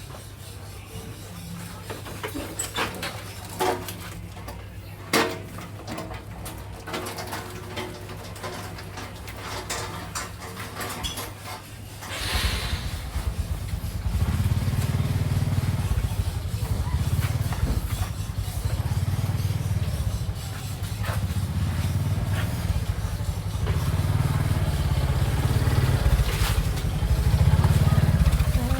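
Street noise with vehicle engines and scattered clicks. About twelve seconds in, a heavy low rumble takes over, gets louder and pulses unevenly.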